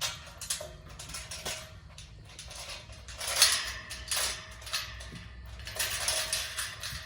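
A metal livestock gate being swung shut and latched: repeated metal clanking and rattling, loudest about three and a half seconds in.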